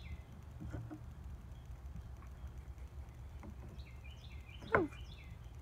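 Birds chirping in short high phrases, with one louder, quickly falling call near the end, over a low steady background rumble.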